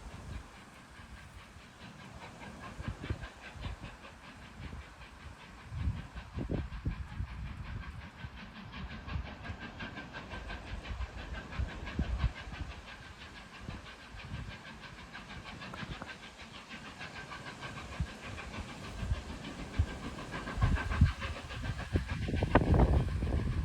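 Strong wind rushing steadily and buffeting the microphone in irregular deep gusts, which grow heavier and louder near the end.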